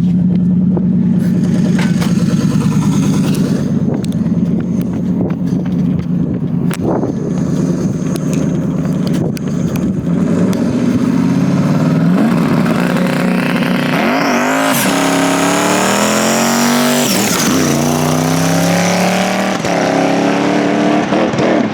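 Twin-turbo 6.2 V8 in the Crown Vic running steadily, then pulling hard through the gears. The pitch climbs and drops back at each shift, roughly every two to three seconds, and a high turbo whistle rises with the pull.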